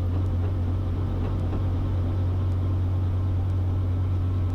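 Robinson R44 Raven II helicopter running steadily on the ground during its engine warm-up, a constant low hum from the engine and rotor.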